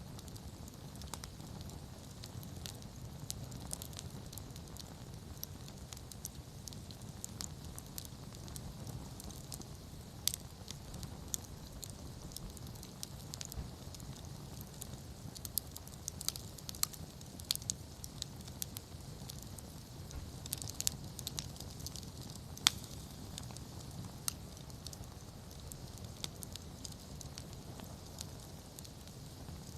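Wood campfire crackling, with irregular sharp pops of burning wood over a low steady rumble of flame; one pop about three-quarters of the way through is the loudest.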